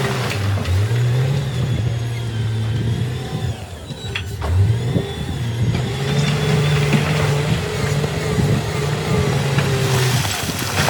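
Heavy earthmoving machine's diesel engine revving up twice, about half a second in and again about four and a half seconds in, holding high each time before easing off, over a steady rushing noise.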